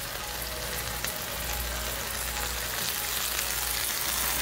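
Chicken, onions and habanero pepper sizzling in a cooking pot, a steady frying hiss that grows slightly louder, with a few faint clicks.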